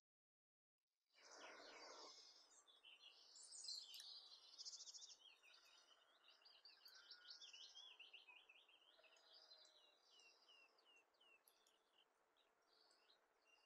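Faint birdsong: many quick chirps and trills over a soft outdoor hiss. It starts about a second in, is busiest in the middle and thins out to separate short calls near the end.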